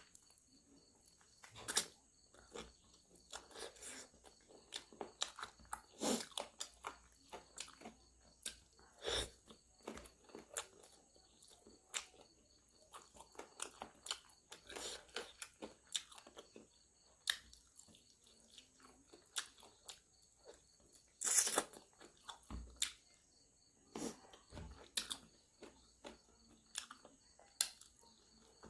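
Close-miked eating: a person chewing and crunching food in irregular bites, with one louder sharp crunch about 21 seconds in.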